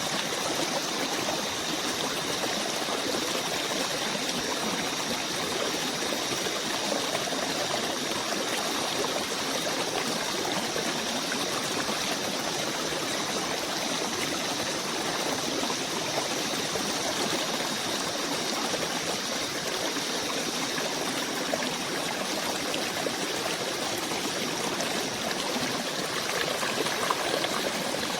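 Steady, unbroken rush of a flowing forest stream, with two faint steady high-pitched tones held over it.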